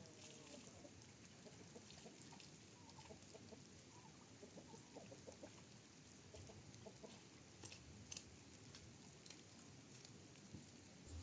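Chickens clucking faintly, scattered short calls.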